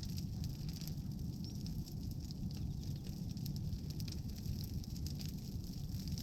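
Bonfire of pruned tree branches crackling, with many small scattered pops over a steady low rumble.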